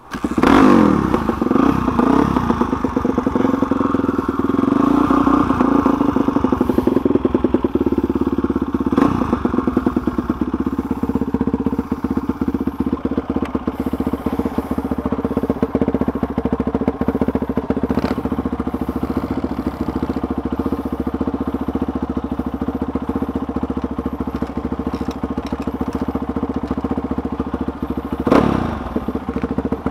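Suzuki DR-Z440 big-bore single-cylinder four-stroke dirt bike engine kick-started and catching at once, its revs falling to a steady idle within the first second or two. Near the end it is briefly blipped.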